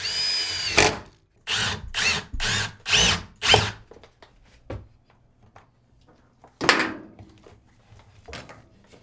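Power drill run in short bursts: one longer whine at the start, then a quick series of brief trigger pulls and one more burst later on.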